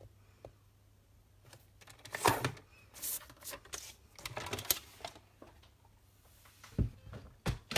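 Cardstock being handled and cut on a paper trimmer: scattered short scrapes and clicks, with two sharp knocks near the end.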